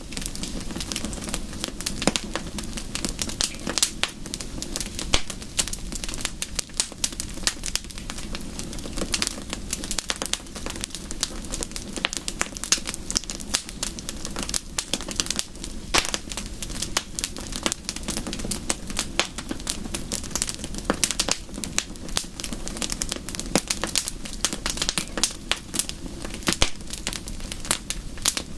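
Wood fire crackling: a dense, irregular run of small pops and snaps over a steady low rush.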